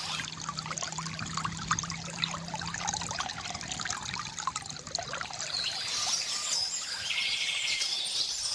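Water from a bamboo fountain trickling and splashing steadily into a basin, with birds chirping in the second half.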